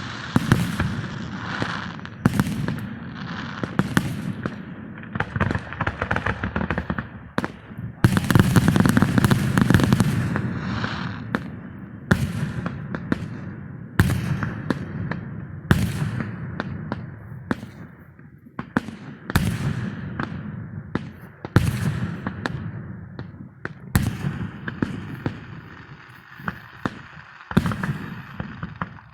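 Fireworks going off: a run of sharp bangs and crackling pops with several heavy booms, one after another.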